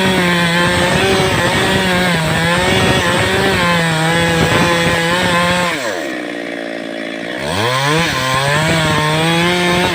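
Stihl chainsaw running at high revs, its pitch wavering as it cuts through a block of wood. A little over halfway through the revs drop off for about two seconds, then the saw is revved back up.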